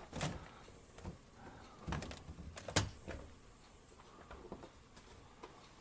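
A few faint, separate clicks and knocks from the smart refrigerator being handled, the clearest about two seconds in and shortly after.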